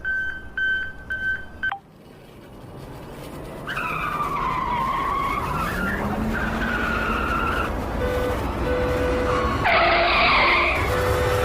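Electronic toy-vehicle sound effects: a quick string of beeps for the first two seconds, then an engine-like rush that builds, with gliding screech-like tones, and short horn toots near the end.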